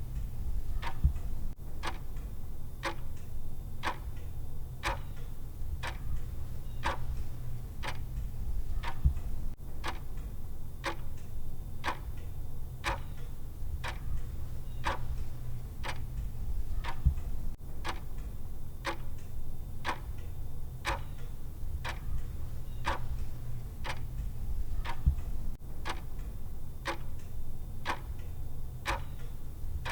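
Clock-style ticking of a countdown timer, a sharp tick about twice a second at an even pace, over a steady low hum.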